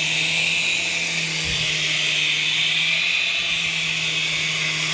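Small electric toy helicopter flying, its motors giving a steady high whine over a constant low hum from the spinning rotor.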